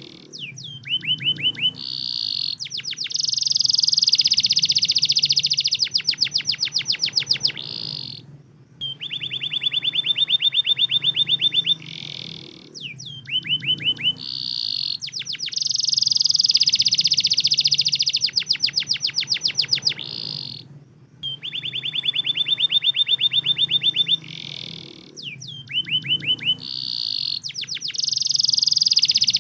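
Domestic canary singing long, rapid trills of repeated notes. The same run of phrases comes round again about every twelve seconds, as in a looped lure track played to get silent or lazy canaries to sing.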